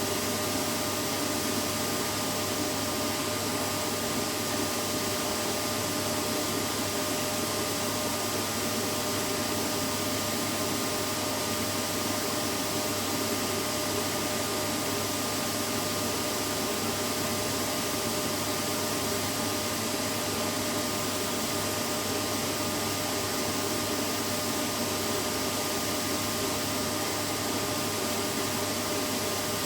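Vacuum cleaner running steadily: an unbroken whooshing hiss with a faint steady whine, played as a continuous white-noise sound for lulling a baby to sleep.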